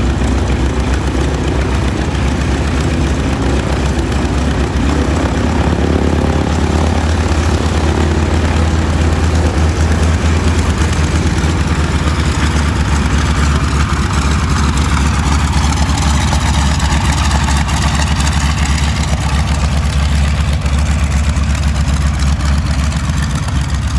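A 1943 Boeing Stearman biplane's radial engine running steadily at low power before take-off.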